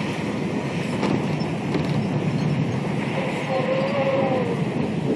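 Strong storm wind and driving rain making a steady, loud rushing noise. Partway through, a faint wavering whistle-like tone rises and falls for about a second and a half.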